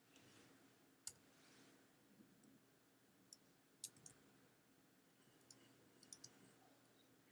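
Faint, scattered clicks of a computer mouse, about seven of them a second or so apart, over a near-silent room.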